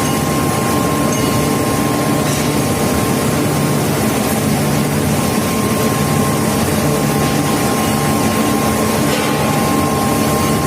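Induction furnace running under power: a steady, loud mechanical rush and hum with a constant high-pitched whine.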